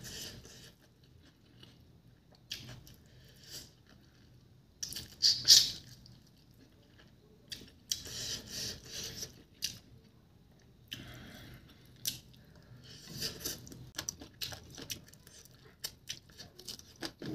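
Close-up mukbang eating sounds: chicken feet and rice chewed and bitten, in irregular bursts of mouth noise with quiet gaps between. The loudest bursts come about five seconds in.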